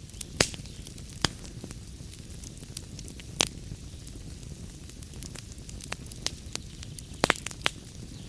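Wood fire burning in a fireplace: a steady low rumble and hiss with scattered sharp crackles and pops, the loudest pops coming about half a second in, near the middle, and in a quick cluster near the end.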